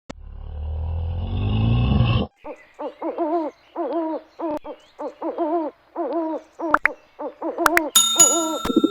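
An animal's low growl, rising over about two seconds, then a run of short, pitched hooting calls repeated about twice a second. Near the end a steady high tone and a few clicks come in.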